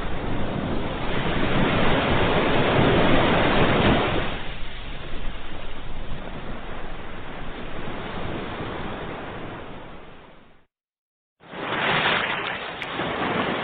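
Ocean waves breaking and washing up the shore: one wave swells to its loudest a second or two in, then washes back and slowly fades. About eleven seconds in the sound cuts out completely for under a second, then another wave rises.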